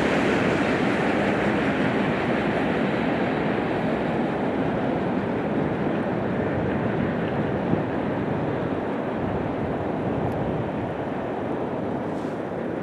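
A train going by, its steady rumble and wheel noise slowly fading as it moves away.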